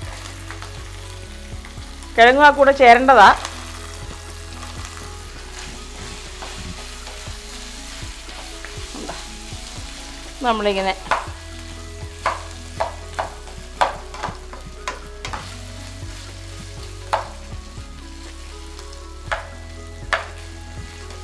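Chopped vegetables sizzling as they fry in oil in a frying pan, stirred with a spatula. About two seconds in, and again near ten seconds, there is a loud wavering squeal-like tone. From about twelve seconds on, sharp clicks come every second or so as the spatula knocks against the pan.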